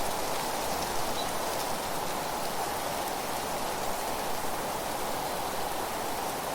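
Steady, even rushing noise of a nature-ambience recording, with no distinct events standing out.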